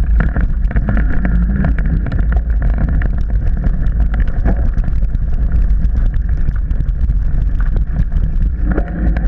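Mountain bike riding over rough trail, heard from a camera on the bike or rider: a steady deep wind rumble on the microphone, with constant clattering and knocking from the bike and camera mount.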